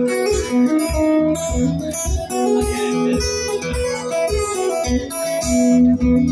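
Acoustic guitar played live by a busker, an instrumental passage of picked and strummed notes over a steady low beat about twice a second.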